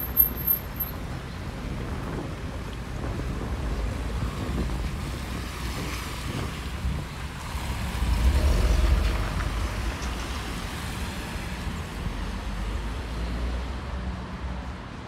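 Outdoor wind rumble on the microphone with traffic noise. About eight seconds in, the low rumble swells for a second or two as a parked car's engine idles close by, its exhaust steaming.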